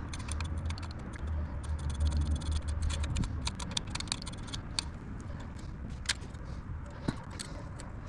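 A small blade scraping old RTV sealant off an engine gasket sealing surface: an irregular run of light scraping strokes and sharp ticks. A low rumble runs underneath, strongest in the first few seconds.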